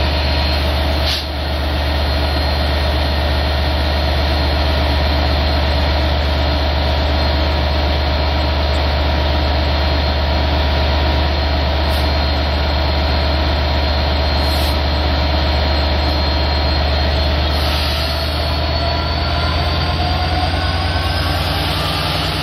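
Stationary LIRR diesel push-pull train of C3 bilevel coaches idling at the platform: a steady low engine drone with faint steady tones above it. There is a brief click about a second in, and a faint whine rises slowly near the end.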